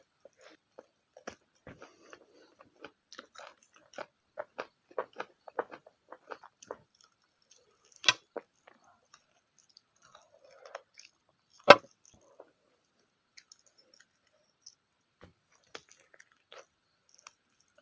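Close-miked chewing of a spicy pork, egg and Maggi noodle meal: a run of short, wet mouth clicks and smacks, denser about four to seven seconds in. Two sharp louder clicks stand out, about eight and twelve seconds in, the second the loudest.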